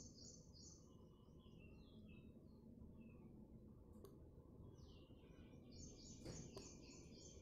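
Near silence: faint room noise with distant birds chirping, a quick run of short high notes at the start and again near the end.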